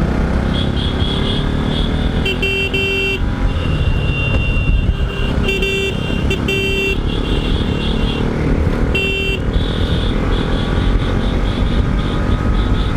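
Motorcycle horns honking repeatedly while riding in a group: several blasts of a second or less, about two, four, six and nine seconds in. Under them runs steady engine and road noise.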